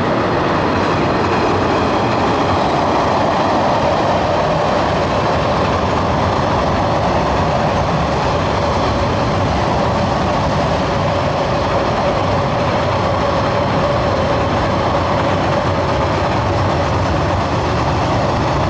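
Diesel-electric freight train of container wagons, led by DX-class locomotives, crossing a long girder bridge at speed: a steady, loud rumble of wheels rolling over the bridge.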